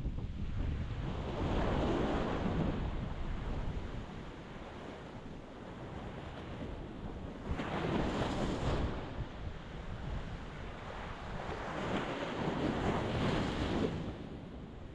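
Ocean waves breaking on the shore in three swells of surf about five seconds apart, each building and falling away over a couple of seconds, over a constant low rumble.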